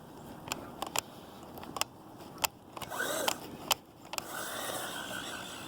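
Hosim S911 RC truck's electric motor whining in short spurts from about halfway through, its pitch rising and falling with the throttle, with several sharp clicks scattered through.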